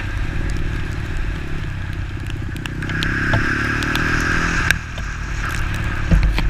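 Bored-up Kawasaki KLX 150 single-cylinder four-stroke engine running under way, heard from the bike with wind noise over it. The engine note rises from about three seconds in, then drops after a sharp click near five seconds, and a few thumps come near the end.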